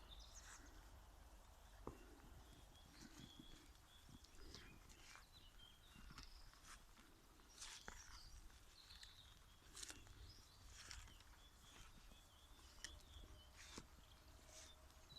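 Faint, irregular footsteps on a walking path, with a few faint short bird chirps and a low rumble of wind or handling noise.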